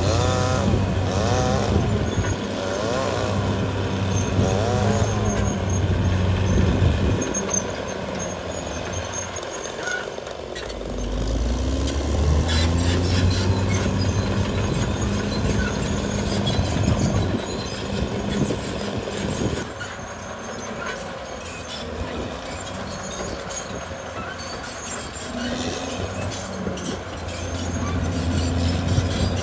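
Caterpillar D6R XL bulldozer's diesel engine working under changing load, dropping back and pulling hard again several times, with a wavering whine in the first few seconds.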